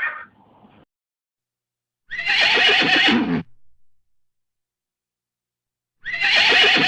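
Horse whinny sound effects, used for the extinct Hagerman horse: two separate whinnies about four seconds apart, each a little over a second long with the pitch falling at the end. The tail of an earlier call fades out at the start.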